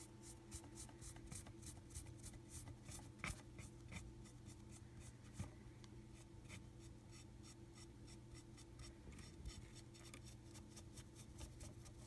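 Faint, quick strokes of a paintbrush dry-brushing paint over a cast Hydrocal plaster wall, about three light brushes a second, over a low steady hum.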